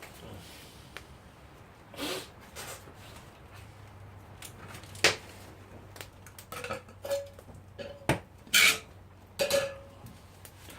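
Metal camping pot and lid knocking and clinking, handled over a campfire: a string of separate sharp knocks, several with a brief metallic ring, the loudest close together in the second half.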